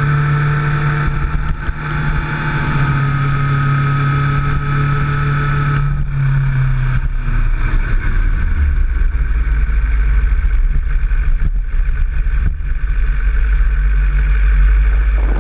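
Motorcycle engine running under way, a steady drone whose pitch drops about six to eight seconds in and then holds at the lower note.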